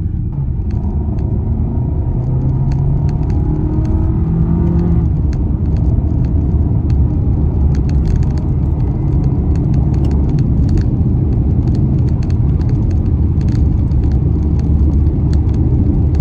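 Car engine and road rumble while driving, the engine note climbing through the first five seconds, then a steady rumble with scattered light ticks.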